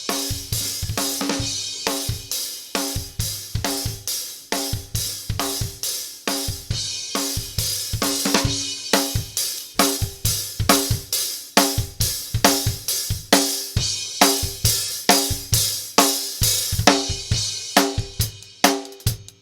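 Recorded drum kit part of kick, snare, hi-hat and cymbals playing a steady beat, heard through an LA-2A-style tube opto compressor. The cymbals thin out near the end.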